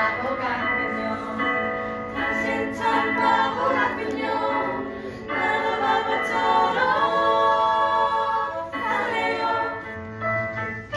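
A group of voices singing a Christian praise song together.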